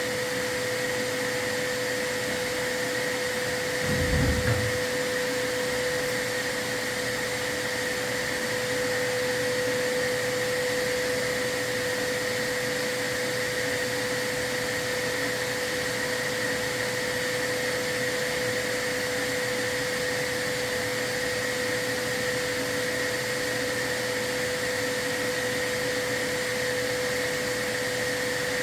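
A vacuum running steadily with a constant whine, as used by a chimney sweep to keep soot contained while sweeping a fireplace. A brief low thump about four seconds in.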